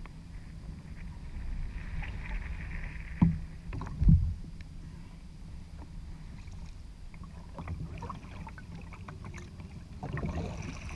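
Ocean kayak being paddled: water swishing off the paddle under a steady low rumble of wind and sea on the microphone. Two sharp knocks come about three and four seconds in, with lighter clicks and splashes after.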